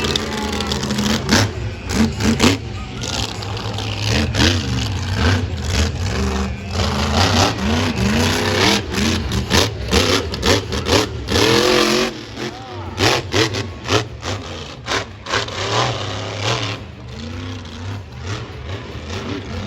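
Monster truck engine running loud and revving up and down repeatedly, with many sharp bangs through it.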